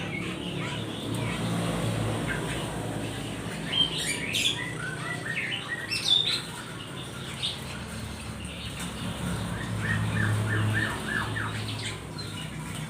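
Small birds chirping and squawking: a few sharp calls about four to six seconds in, then a quick run of repeated notes, over a low steady hum.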